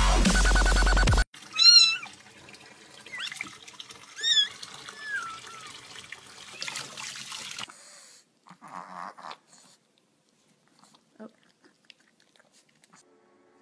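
Dubstep music cuts off about a second in. Then a cat meows: two high calls a couple of seconds apart, with a shorter, lower one just after the second.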